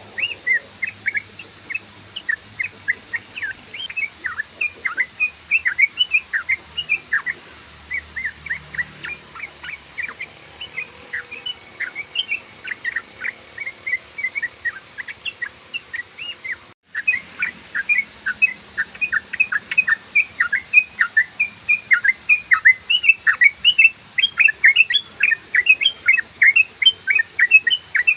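Yellow-vented bulbul (trucukan) song: a long, rapid chattering run of short chirping notes, several a second, with a momentary break about 17 seconds in.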